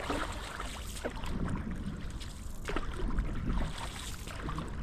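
Canoe paddle strokes in the water, with small splashes at irregular intervals, over wind rumbling on the microphone.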